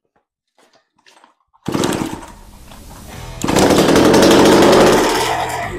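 1984 Druzhba two-stroke chainsaw engine catching on its first start attempt, without a spark check or carburettor cleaning. After a few faint clicks it fires suddenly about a second and a half in and runs, then revs up much louder about two seconds later before easing off near the end.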